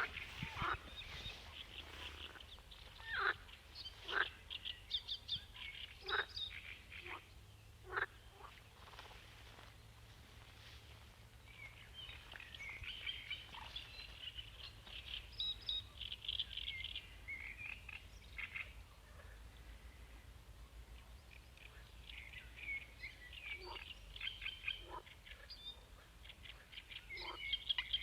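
Frogs and birds calling: scattered sharp single chirps in the first several seconds, then denser runs of quick trilled calls about halfway through and again toward the end.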